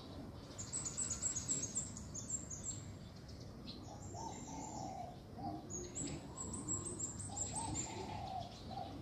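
Birds calling in a treetop: rapid high chirps throughout, and twice a short run of low, soft hooting notes.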